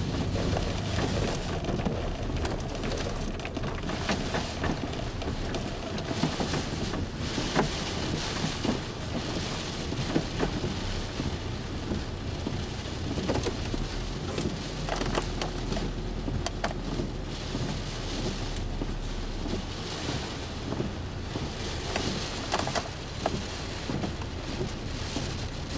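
Heavy wind-driven rain from a severe thunderstorm beating against a car, a steady loud rush with many irregular sharp ticks of drops and gusts striking the body and glass.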